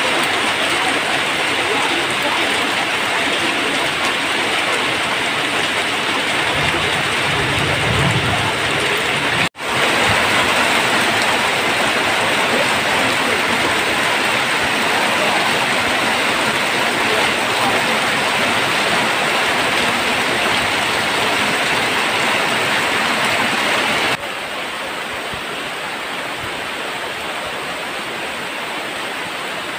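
Heavy rain pouring steadily onto wet ground and foliage. A low rumble comes in about seven seconds in, the sound breaks off for an instant about nine and a half seconds in, and it is quieter from about twenty-four seconds on.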